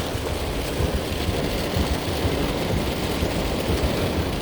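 Torrential rain drumming steadily on a car's roof and windows, heard from inside the car.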